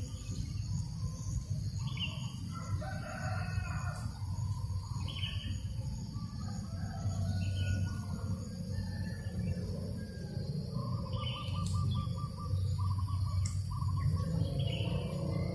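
Farmyard ambience: a rooster crowing among short bird chirps that repeat every second or two, with a quick rattling trill past the middle, over a steady low rumble of breeze.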